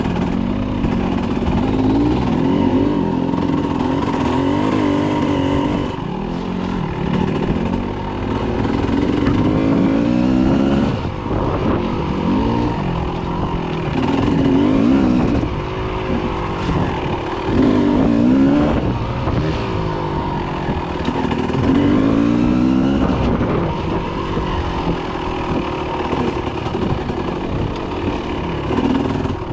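Dirt bike engine running under throttle, its pitch rising and falling again and again every few seconds as it revs up and eases off.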